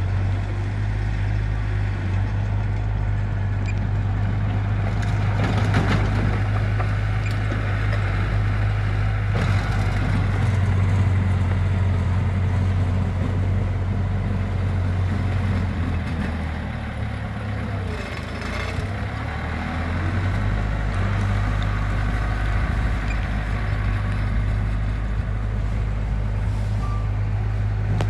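Diesel engine of heavy construction machinery running steadily under load, its note dipping and changing for a few seconds about two-thirds of the way through.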